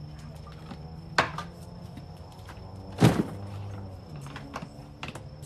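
Items being handled and set down during a garage clear-out: two heavy thuds, about a second in and about three seconds in, with the second the louder, and small knocks and clicks between them. A steady low hum runs underneath.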